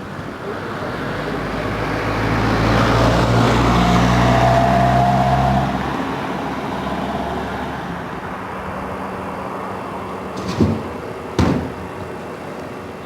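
An engine passes close by, swelling to a peak with a steady low hum and a higher whine, then fading away. Two sharp knocks come near the end.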